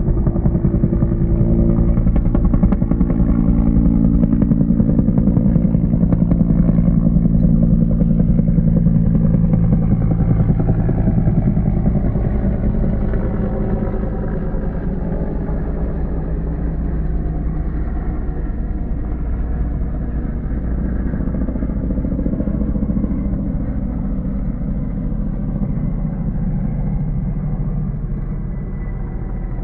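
Firefighting helicopter's engine and rotor running with a rapid, even rotor beat, loudest for the first ten seconds or so, then a little quieter.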